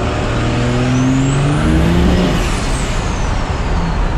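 Turbocharged car engine accelerating hard on a pull, its pitch climbing for about two seconds before dropping, with a thin high whistle that rises and then slowly falls away.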